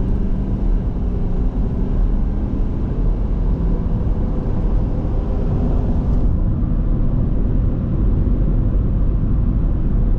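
2019 Ford F250's 6.7 L Power Stroke V8 turbo diesel pulling under acceleration, heard from the cab with steady road rumble. The hiss in the mix drops away about six seconds in.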